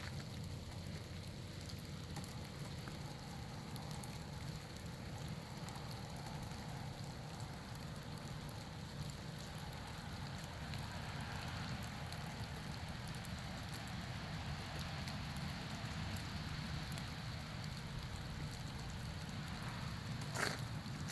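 Steady patter of falling drops, with a few sharp clicks near the end.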